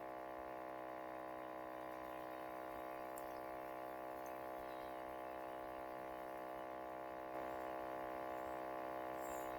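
A steady electrical hum with many evenly spaced overtones, like mains buzz on an audio line. It gets a little louder about seven seconds in.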